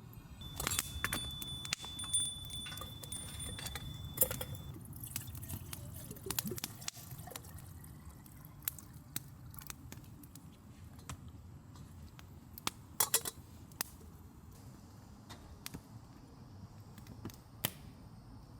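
Scattered light clicks and clinks of small hard objects being handled, with a steady high ringing tone over the first few seconds and a couple of sharper knocks, over a low steady rumble.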